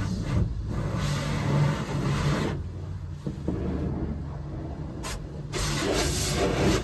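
Pressure-washer spray hissing in two long bursts over a steady low hum.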